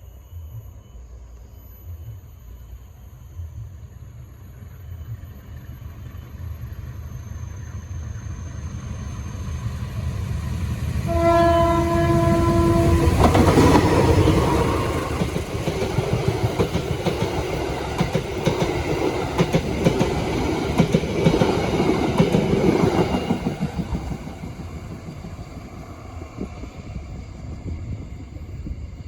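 Diesel train approaching with a rising rumble, sounding one horn blast of about two seconds. It then passes close by with loud wheel and rail noise and rapid knocking, and fades away.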